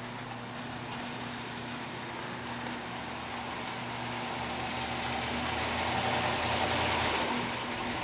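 An overhead garage door opener runs with a steady hum as the door rises, stopping shortly before the end. Meanwhile the 1970 Chevelle SS 454's big-block V8 rolls up at low speed, getting louder from about halfway and loudest near the end.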